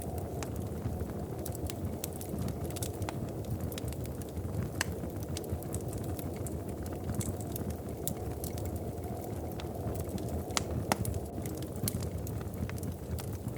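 Wood fire crackling: irregular sharp pops and snaps over a steady low rumble, with one louder pop a little before the end.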